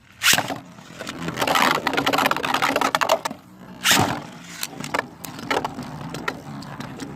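Beyblade battle. The tops are ripped off burst launchers with a sharp zip just after the start, then spin, scrape and clatter against each other and the plastic stadium. One loud clash comes about four seconds in, and smaller clicks and knocks follow.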